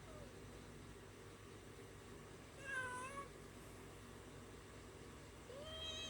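A cat meowing twice: one short meow about three seconds in and another starting near the end.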